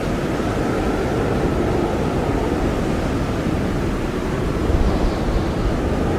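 Blizzard wind blowing hard and steadily, a deep rumble with a faint high whistle over it; a gust swells briefly about five seconds in.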